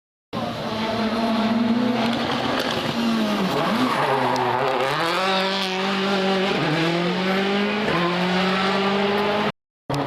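Rally car engine under hard acceleration, revving up and dropping back at each gear change. The pitch dips about a third of the way in, then climbs through two upshifts. The sound breaks off briefly near the end.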